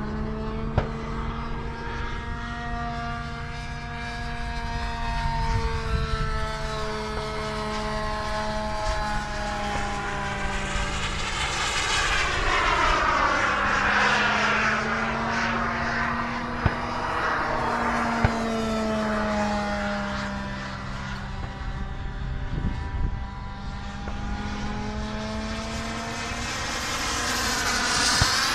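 Radio-controlled model airplane flying past overhead, its engine pitch rising and falling as it passes, loudest about halfway through and again near the end.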